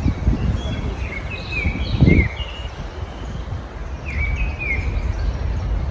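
Small songbirds chirping in short, quick phrases, in two bursts, over a steady low background rumble that swells briefly about two seconds in.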